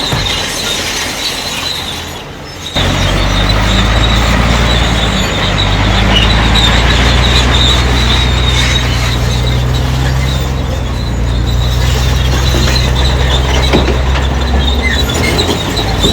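Crawler bulldozer working: its steel tracks squeal and clank steadily throughout. About three seconds in, its diesel engine comes in loud under load with a steady low drone.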